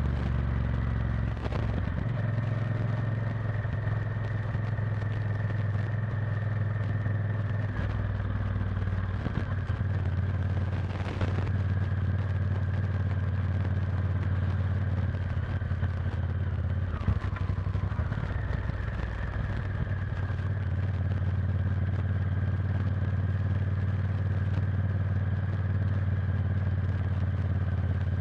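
Honda Varadero XL1000's V-twin engine running steadily as the motorcycle rides along at low speed, with road and wind noise. The engine's pitch dips briefly about two-thirds of the way in, then settles steady again.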